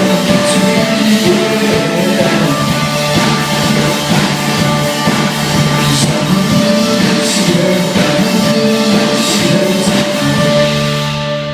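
A live rock band playing at a soundcheck: sustained guitar or keyboard chords over drums, with cymbal crashes every few seconds. The playing dies away near the end.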